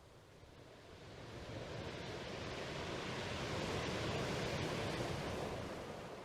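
Ocean waves: a rushing surf noise that swells for about three seconds, then fades, like one wave washing in.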